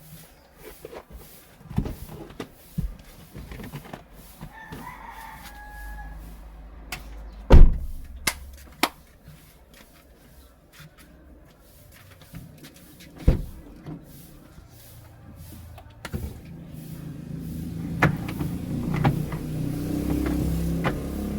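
Knocks and clicks of things being handled inside a car, the loudest about seven seconds in. A rooster crows once about five seconds in. A low hum builds up over the last few seconds.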